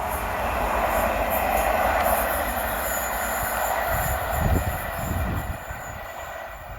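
A train running past on the railway, a steady rushing rumble of wheels on track that dies away near the end. A thin, high wheel squeal sounds through the middle.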